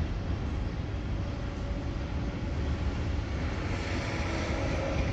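Freight train rolling past, a steady rumble of wheels on rail. About three and a half seconds in it turns brighter and hissier, and a faint whine comes in.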